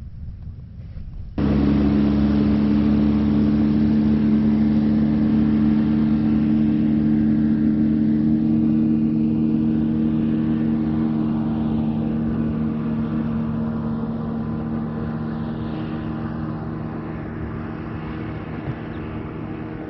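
Airboat's engine and propeller running steadily. It cuts in suddenly about a second and a half in, loud, then slowly fades as the boat moves away.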